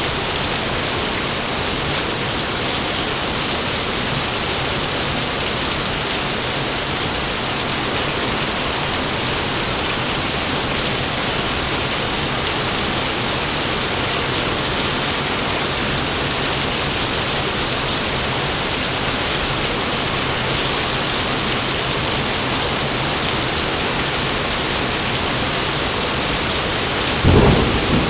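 Heavy rain falling in a steady downpour, with a short low thump near the end.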